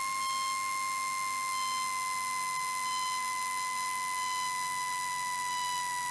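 A steady electronic tone with overtones, like a held beep, with a loud hiss that switches on abruptly at the start and faint short higher pips about every second and a half, heard through the aircraft's radio and intercom audio.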